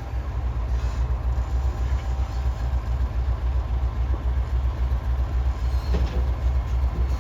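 Freight train of container wagons rolling past, a loud low rumble pulsing at an even beat, with a faint knock now and then.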